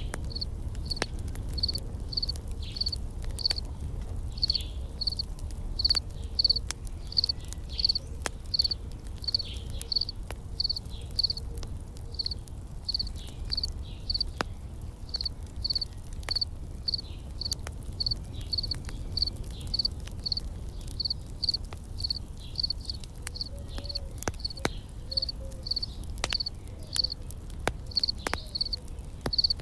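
An insect chirping at a high pitch, about two chirps a second, over scattered sharp crackles of a campfire and a low steady rumble.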